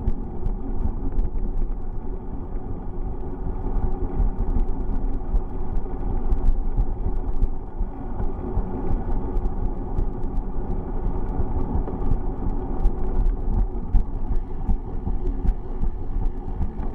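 Steady low rumble of riding a bicycle, with wind buffeting the microphone and tyre and road noise, and scattered light clicks and rattles.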